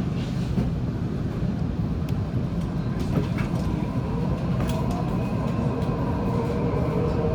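Waratah A set electric train accelerating away, heard from inside the carriage: a steady low rumble, with the traction motors' whine rising in pitch from about halfway through and a few wheel clicks on the rails.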